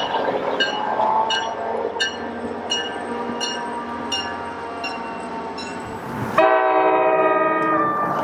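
NJ Transit commuter train rolling by, with a bell ringing in even strokes about three to four times every two seconds. About six seconds in, a train horn cuts in abruptly, sounding one loud, held multi-note chord.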